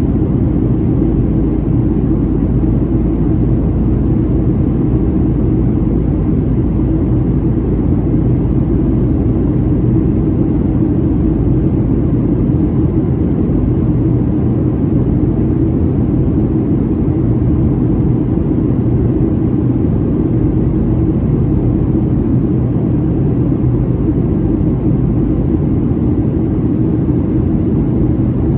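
Steady cabin noise inside a Boeing 737-700 in descent: its CFM56-7B turbofan engines and the airflow over the fuselage make a constant low rumble with a faint hum, unchanging throughout.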